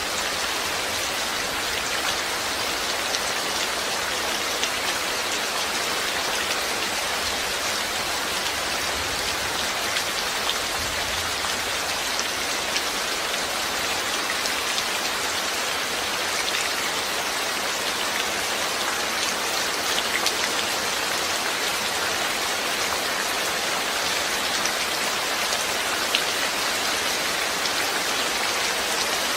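Steady rain falling, with the dense patter of many small drops striking a surface.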